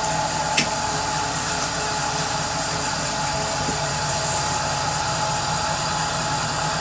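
Power saw running steadily without load just after a cut through kindling wood, a constant hum with one sharp click about half a second in.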